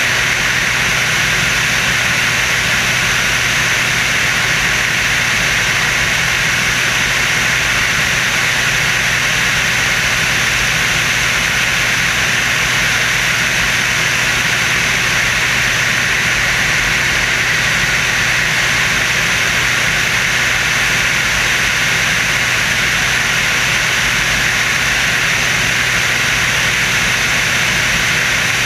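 Steady engine and rushing wind noise of the Screamin' Sasquatch, a jet-assisted Waco biplane, in flight, with a constant low drone under a loud hiss that holds an even level throughout.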